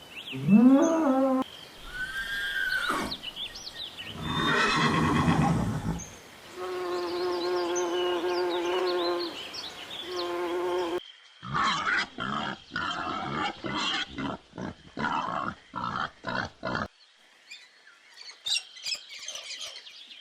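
A string of different animal calls, one after another: short calls that bend up and down in pitch, a noisy stretch, a long steady call, a quick run of sharp strokes, then faint high chirps near the end.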